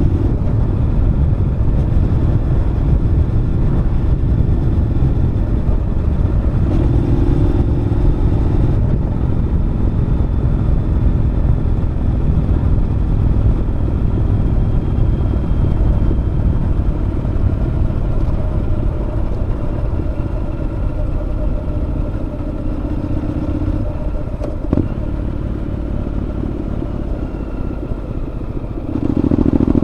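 Honda NC750X parallel-twin engine running through a Moriwaki aftermarket muffler, heard from the rider's position on a winding road. The throttle opens and closes in spells; the engine runs softer for a long stretch in the second half, then picks up again near the end.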